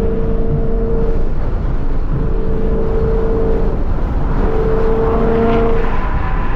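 A 2014 Ford Mustang GT's 5.0-litre V8 exhaust and road noise while driving: a steady low rumble with a humming drone at a fixed pitch that comes and goes every second or two.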